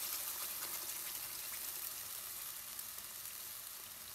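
Freshly added ground onion-tomato masala paste sizzling in hot oil in a kadai, a steady crackling hiss that slowly dies down as the paste settles over a low flame.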